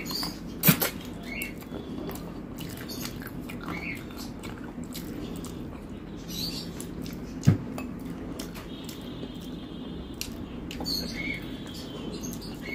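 Close-miked eating of rice and curry by hand: wet chewing and lip-smacking with many small mouth clicks. Two sharp thumps stand out, about a second in and about seven and a half seconds in.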